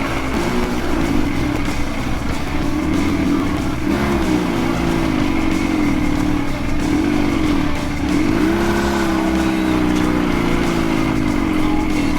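Dnepr sidecar motorcycle's air-cooled flat-twin engine pulling in first gear up a steep, rough track, the revs rising and falling again and again as it works over the bumps.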